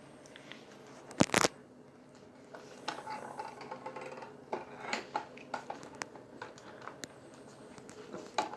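Kirby vacuum's Tech Drive transmission clicking irregularly, several clicks a second, with two louder knocks about a second in. The clicking comes from rear axle gears that stay partly engaged when they should be fully disengaged.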